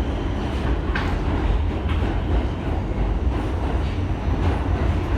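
New York City subway train running on the tracks: a steady low rumble with rail noise, and a sharp click about a second in.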